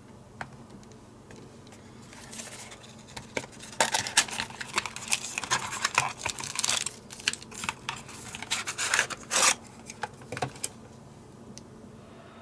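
Hand work at an electronics bench: a run of irregular scraping, rubbing and sharp clicks from small tools and parts being handled, starting about two seconds in and stopping near the end. A steady low electrical hum runs underneath.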